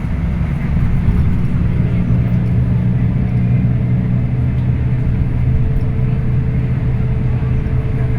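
Scania K340IB bus engine running steadily under way, a low drone that grows louder about a second in, with a faint higher whine joining about halfway through.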